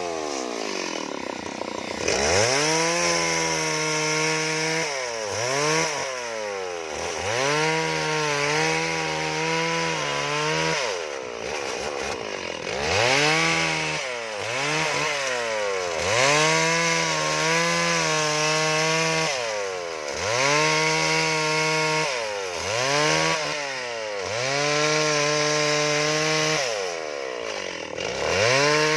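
Chainsaw revving up and easing off again and again, about every two to three seconds, its pitch holding steady while the chain bites into wood during carving cuts.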